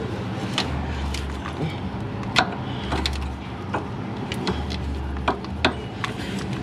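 Irregular metallic clicks and clinks from hand tools and the steering shaft joint being worked into alignment. A low hum comes and goes underneath.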